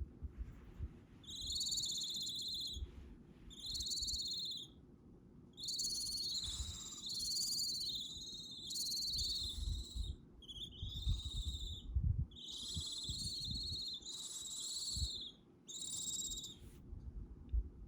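Young barn owl chicks hissing: about ten rasping, snore-like calls, each about a second long, one after another with short gaps. This snoring hiss is the nestlings' food-begging call.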